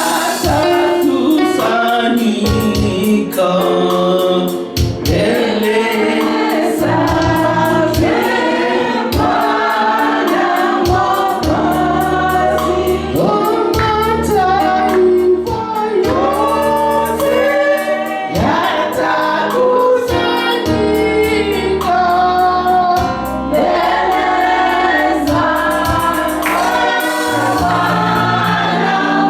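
Gospel choir and congregation singing in Swahili over a band with bass and a steady beat.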